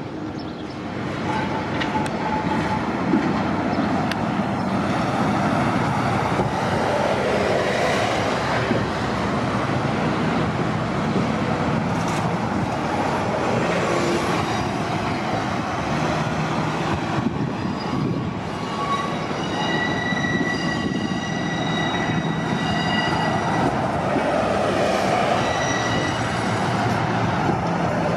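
City transit buses running at close range. In the second half a high, steady squeal made of several pitches lasts for several seconds.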